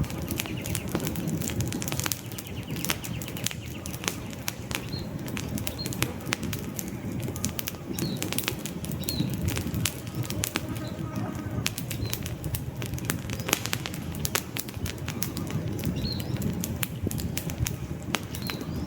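Campfire burning: many sharp crackles and pops from the logs over a steady low rush of flame. Short high bird chirps sound every few seconds behind it.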